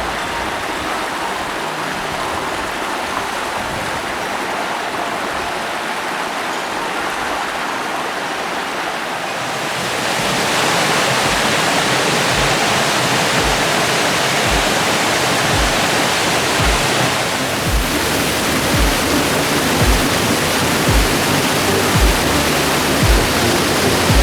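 Steady rushing water, which gets louder and fuller about ten seconds in. From then on, background music adds a low beat about once a second.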